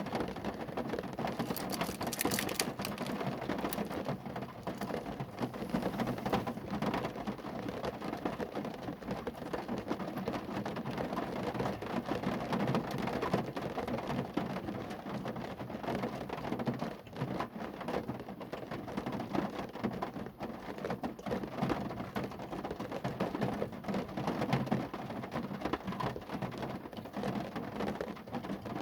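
Rain drumming steadily on a car's roof and body, a dense patter of drops with no letup.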